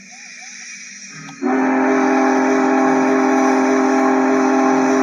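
MTH One Gauge Challenger model steam locomotive's sound system playing a chime steam whistle through its upgraded speaker: one long blast of several tones together, starting about a second and a half in and held steady.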